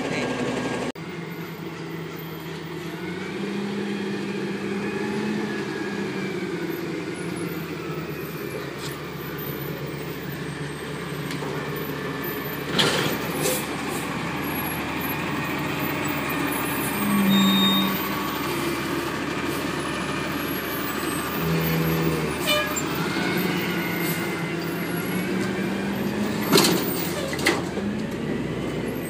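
Garbage truck at work: its diesel engine running and changing pitch as it revs, with several sharp knocks and hisses along the way.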